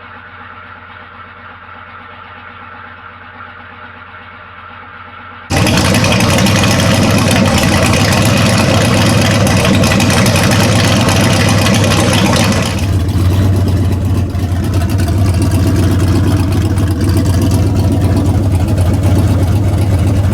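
Turbocharged 6.0 LS V8 in a 1979 Chevy C10 idling steadily on Holley Terminator X Max fuel injection, freshly started for the first time and warming up. About five seconds in the engine sound suddenly becomes much louder and fuller, heard close up.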